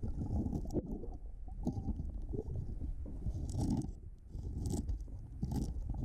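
Muffled underwater rumble with several short gurgling bursts of a scuba diver's exhaled regulator bubbles.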